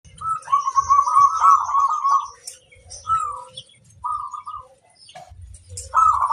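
Zebra dove (perkutut) cooing: a long rolling phrase of rapid trilled notes, then two short coos, and a new loud phrase starting near the end. Faint high twittering sits above it.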